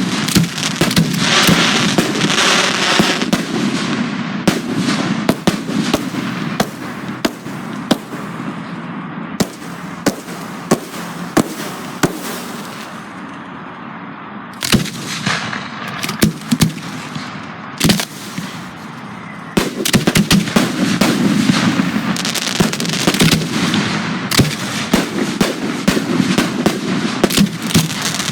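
Professional fireworks display: many sharp shell bursts and reports in quick succession, with crackling trails. There is a thinner spell about halfway through, then a denser barrage from about two-thirds of the way in.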